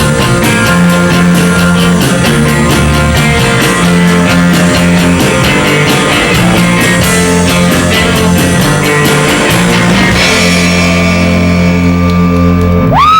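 Live rock band playing loudly: electric guitar, bass and drum kit. About ten seconds in, the drums drop out and the band holds a final chord that rings on.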